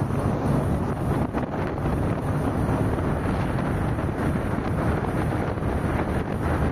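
Car driving at speed: steady road and wind noise with a low hum underneath, wind buffeting the microphone.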